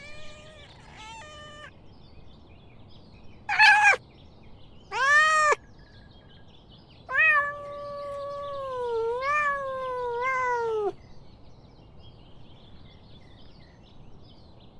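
Domestic cat meowing: several short meows, then one long wavering meow lasting about four seconds.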